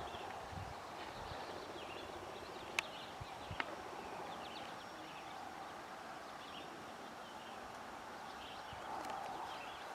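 Quiet rural outdoor ambience: small birds chirping over a steady background hiss, with two sharp clicks about three seconds in.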